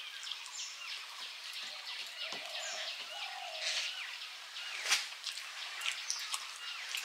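Small birds chirping and twittering repeatedly, with a few faint clicks and one sharper click about five seconds in.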